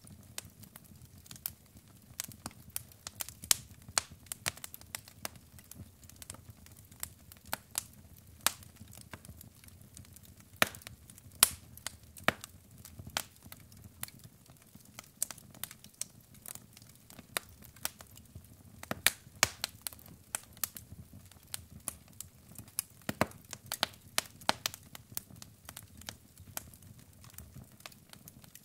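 Wood fire crackling: burning logs pop and snap at irregular intervals over a low, steady rumble of flame, with a few louder pops.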